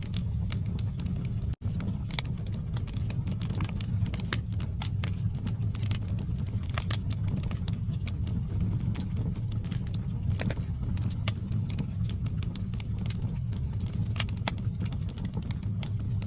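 Wood fire burning in a fireplace: irregular sharp crackles and pops from the logs over a steady low rumble of the flames. The sound cuts out for an instant about one and a half seconds in.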